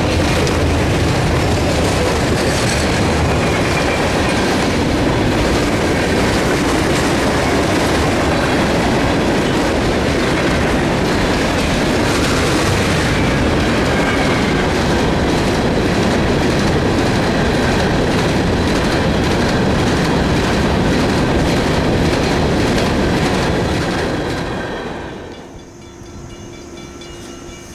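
Freight train cars rolling past, steel wheels clicking rhythmically over the rail joints. The sound dies away near the end as the last cars pass.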